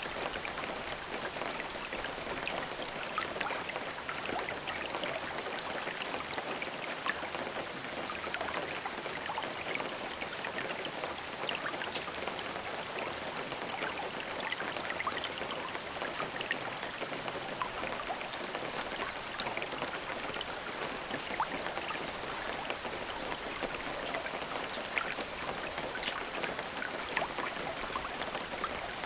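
Steady rain, with many individual drops pattering on a surface. No thunder.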